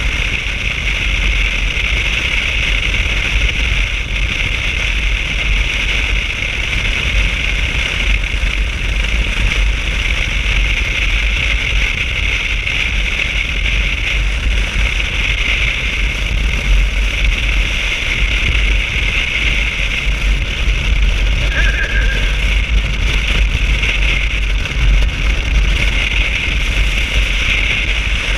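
Steady drone of a motorcycle being ridden: engine, wind and road noise running on without a break.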